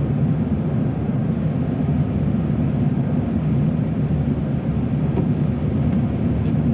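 Steady road noise of a moving car on a wet road: tyres on wet pavement and engine, a constant low rumble.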